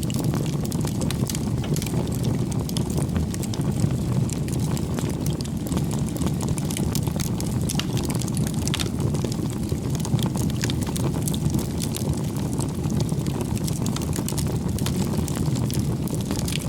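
Bonfire burning: a steady low rush of flame with many small, sharp crackles and pops from the burning wood.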